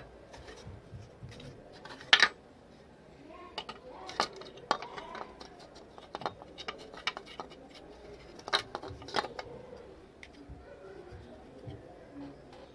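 Scattered sharp clicks and knocks of small hard parts and tools being handled, the loudest about two seconds in, with a few more clustered near the middle and about three quarters of the way through.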